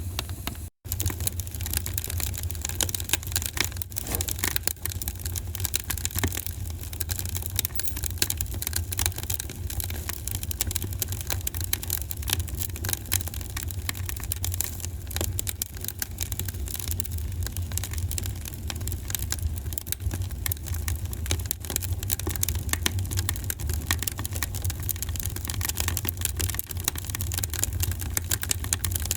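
Wood fire crackling in a fireplace: many small irregular pops and snaps over a steady low rumble of the burning. The sound cuts out for an instant just under a second in.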